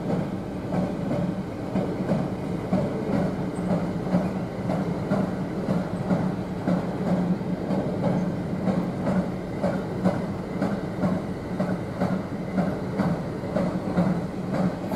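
A train running on the rails, its wheels clicking over the rail joints in a steady rhythm of about three clicks a second, over a steady low hum.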